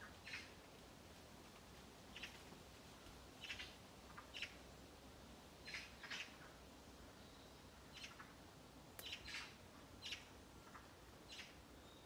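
Birds giving short, high scolding calls, about a dozen single calls at irregular intervals.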